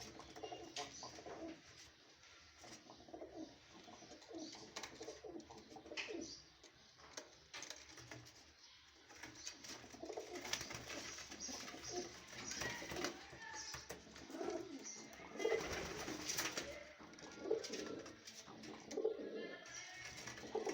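Birds calling over and over in low, repeated calls, with scattered sharp clicks and taps among them; the calls grow louder and busier in the second half.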